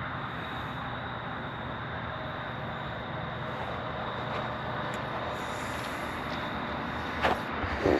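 Vehicle engine running steadily, with a single sharp click near the end.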